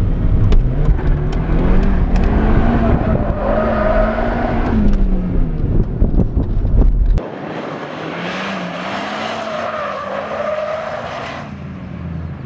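Nissan 200SX S13's turbocharged CA18DET four-cylinder, heard from inside the cabin, revving up and down as the car is pushed through a tight corner in a drift attempt. About seven seconds in, the sound cuts to the car heard from outside: quieter, with the engine revs still rising and falling and the tyres skidding.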